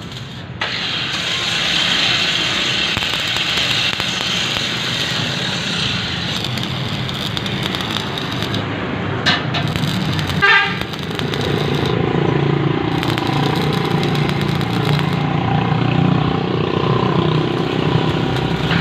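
A motor vehicle's engine running steadily, with a sharp click about nine seconds in and a brief stuttering tone like a horn toot about a second later. After that the engine pitch rises and falls.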